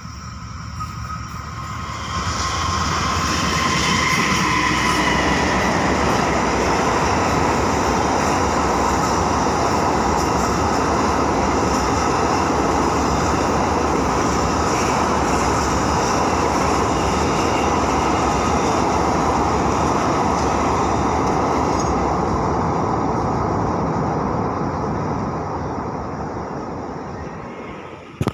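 A train passing close by: the rumble of its wheels and cars builds over the first few seconds, runs loud and steady for about twenty seconds, then fades away near the end.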